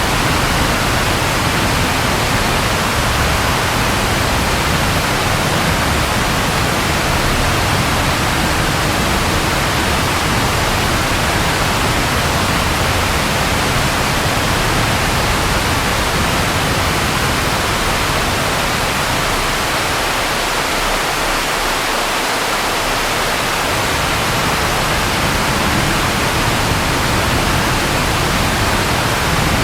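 Steady, even rain with a low rumble underneath, which eases off for a few seconds about two-thirds of the way in.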